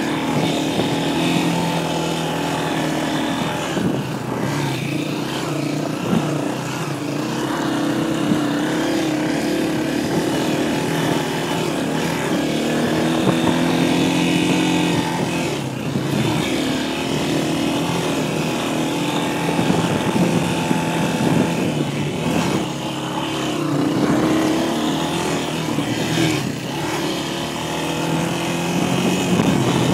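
Dirt bike engine running under way, its pitch rising and falling over and over with the throttle and gear changes.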